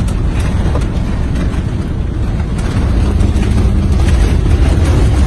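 Loud, steady low rumble inside a fire truck's cab as a bushfire front passes over it, the truck's engine and the fire outside running together, with scattered small crackles, building slightly louder.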